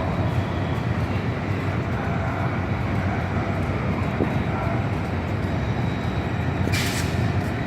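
Diesel train at a station platform, a steady low rumble, with a short burst of hiss about seven seconds in.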